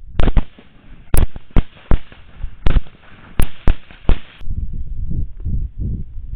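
Rapid volley of gunshots, about nine sharp cracks at uneven spacing within four seconds, followed by a loud, uneven low rumble.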